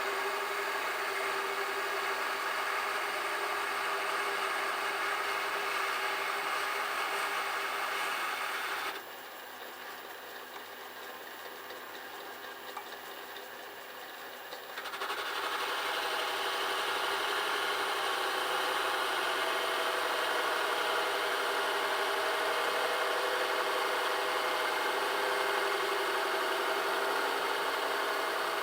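Metal lathe running steadily with a whirring motor and gear rattle while a home-made ball turner cuts a piece of cast aluminium. About nine seconds in, the sound drops sharply to a quieter hum for some six seconds, then comes back.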